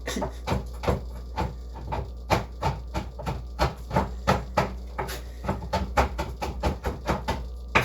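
Knife chopping chocolate on a cutting board: a run of quick, uneven knocks, several a second.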